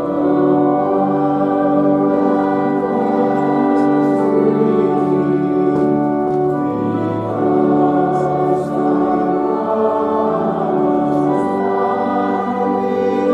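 Voices singing a hymn to organ accompaniment, in long held chords.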